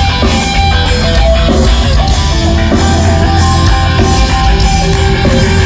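Loud rock music with distorted electric guitar and a heavy bass.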